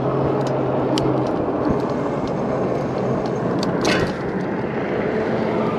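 Wind and road noise of an e-bike ride, with a low steady hum that stops about a second in, scattered light ticks and one sharp sound about four seconds in.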